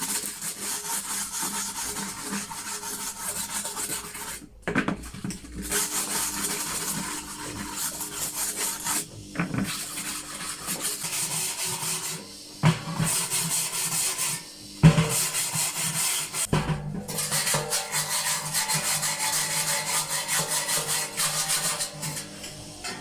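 Fast back-and-forth abrasive scrubbing by hand, cleaning the bearing and seal seats and the edge of a washing machine's opened tub, with a few short pauses.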